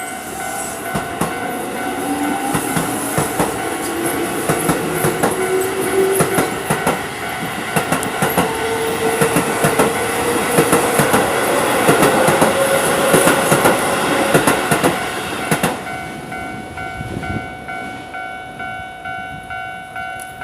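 Keio Line electric train passing over a level crossing: wheels clattering over the rail joints, with a rising whine, louder toward the middle and cutting off about 15 seconds in. The crossing's warning bell keeps ringing throughout.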